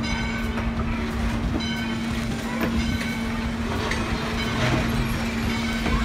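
Vintage passenger coaches rolling slowly past the platform: steel wheels running on the rails over a steady low hum, with a few brief high squeals.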